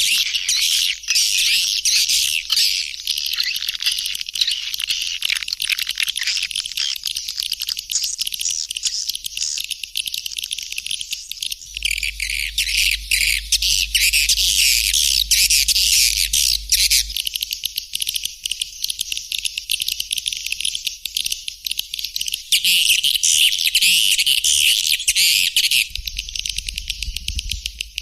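Recorded swiftlet call (suara panggil) of white-nest swiftlets: a dense, continuous high twittering of many short chirps, the kind of track played from speakers to lure swiftlets into a nesting house. A faint low hum runs underneath, growing a little stronger in the middle and near the end.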